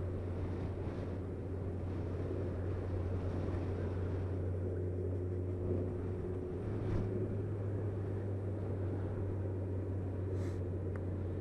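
Motorcycle riding along at a steady speed: a steady low engine drone with wind rushing over the microphone.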